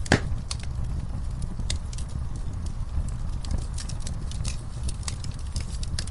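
Wood fire crackling in a fireplace: irregular sharp pops and snaps over a steady low rumble of the flames, with one louder pop just after the start.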